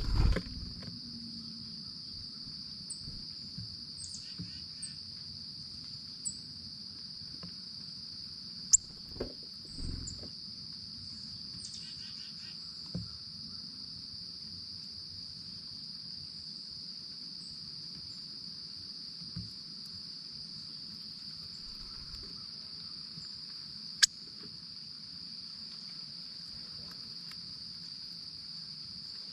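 Steady, unbroken high chirring of crickets. A few sharp clicks and soft knocks sound over it, the loudest about nine seconds in and again near the end.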